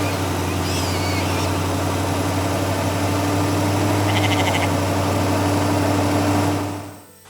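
Tractor engine running steadily at an even pitch, with bird chirps in the first second and a short rapid trill about four seconds in; the engine fades out near the end.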